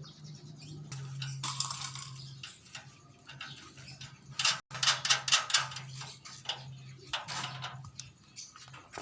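Metal tools and machine parts clicking and rattling against each other, with a quick run of sharp clicks about halfway through, over a steady low hum.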